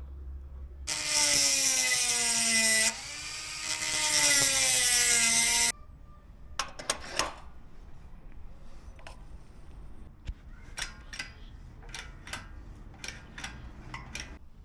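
A power drill runs in two loud bursts, its motor pitch sagging and recovering as it loads up. It is followed by scattered sharp clicks and a run of ratcheting clicks.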